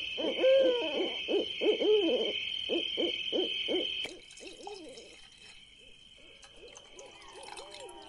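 Repeated hooting bird calls, two to three a second, over a steady high-pitched drone. Both drop away abruptly about four seconds in, leaving fainter tones.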